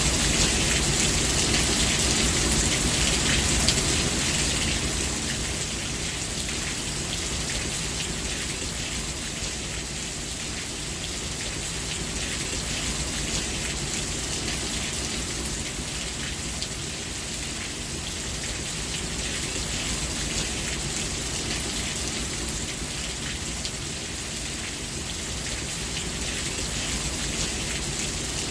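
Steady rain falling, an even, continuous hiss of drops. It is a little louder for the first few seconds, then eases slightly and holds steady.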